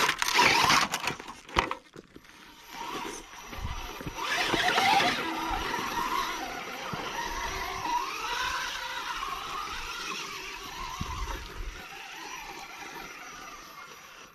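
Radio-controlled shaft-driven rock crawler's electric motor and gears whining, the pitch wandering up and down as the throttle is worked. It opens with a loud noisy burst, and wind rumbles on the microphone now and then.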